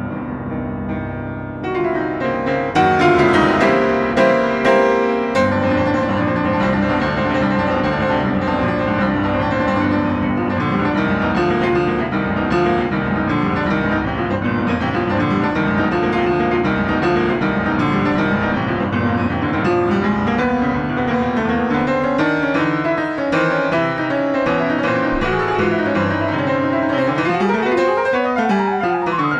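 Solo piano playing a dense stream of notes that grows louder about two seconds in, with rapid runs sweeping up and down the keyboard in the last third.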